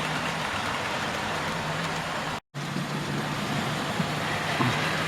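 Model railway trains, including milk and oil tanker trains, running on the layout track together: a steady rumble of wheels on rail with an electric motor hum. The sound drops out completely for an instant about halfway through.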